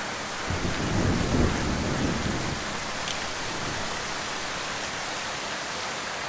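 Heavy rain falling steadily. A short low rumble, typical of distant thunder, swells about half a second in and dies away within about two seconds.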